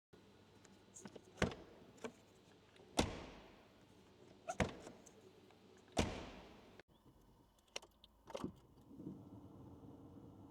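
Sharp knocks and clicks inside a Citroen XM, among them two heavy thuds with a ringing tail like car doors shutting, plus the jingle of keys. From about nine seconds a steady low hum sets in, typical of the engine running at idle.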